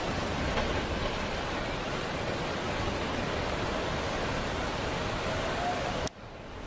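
Steady rushing of fast-flowing floodwater. It cuts out abruptly near the end and fades back in.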